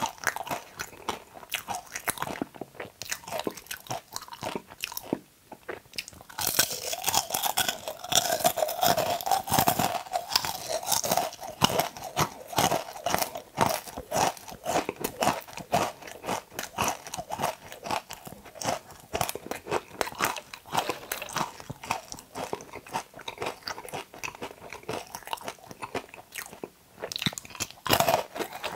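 Close-miked crunching and chewing of okra, a dense run of crisp crackles. It is louder and busier for several seconds about a quarter of the way in.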